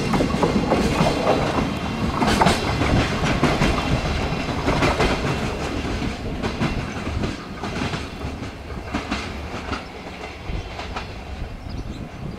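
Freight train wagons clattering over the rail joints in a quick, irregular rhythm, growing steadily fainter as the train moves away.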